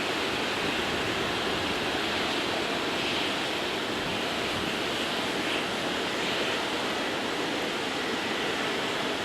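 Steady, even rushing noise of airliner jet engines with no rise or fall.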